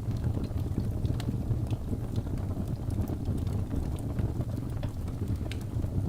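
Birch logs burning in a fireplace: a steady low rumble of flame with scattered sharp crackles and pops, a few each second.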